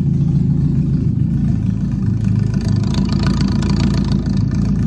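Car engine running steadily at a low, even pitch, with a rougher, raspier edge through the middle of the stretch.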